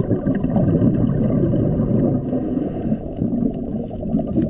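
Muffled, low water sound of underwater bubbling and gurgling, played as the lobster's sound.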